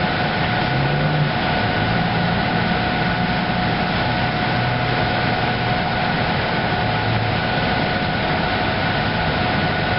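Steady machine hum with a constant high whine over an even hiss, as from a train standing idle at a station platform.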